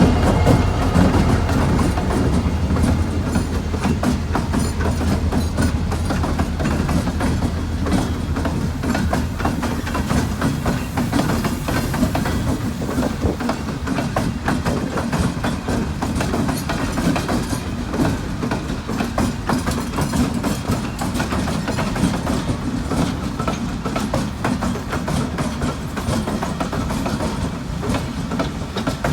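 A Norfolk Southern train of SD60 and SD60I diesel locomotives rolling past. A low engine drone for roughly the first ten seconds, then fading, under a steady run of rapid wheel clicks over the rail joints.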